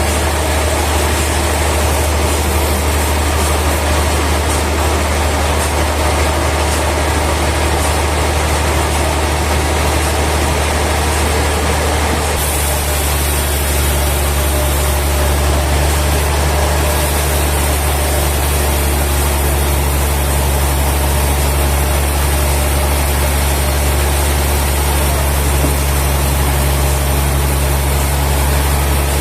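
Sawmill machinery running steadily with a loud, low, engine-like hum and no separate cutting strokes; the sound changes abruptly about twelve seconds in.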